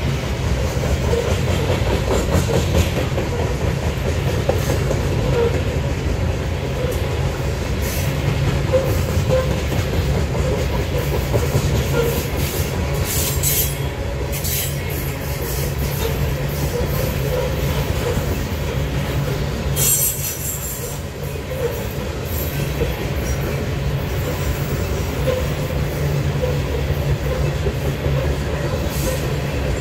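A train rolling past on the track: a steady rumble of rail cars and wheels, with a few sharp clacks a third of the way in and about two-thirds of the way in.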